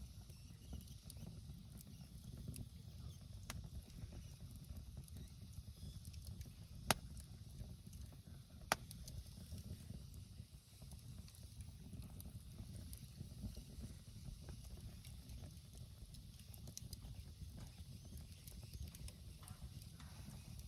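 Wood campfire burning with faint scattered crackles and two sharp pops a couple of seconds apart near the middle, over a low steady rumble.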